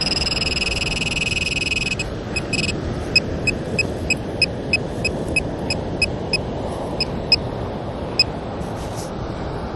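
Metal detector target tone: a steady high beep held for about two seconds, then a run of short beeps, two or three a second, as the coil sweeps back and forth over a buried metal target. A steady rushing hiss runs underneath.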